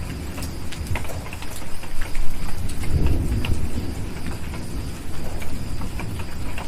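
Steady rain with a low rumble of distant thunder swelling about two seconds in, and sharp pops of a crackling wood fire scattered throughout.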